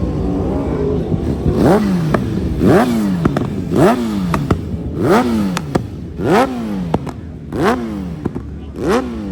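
A vehicle engine revved in a series of quick throttle blips, about one every second and a quarter. Each blip rises sharply in pitch and falls back, with short sharp cracks between them.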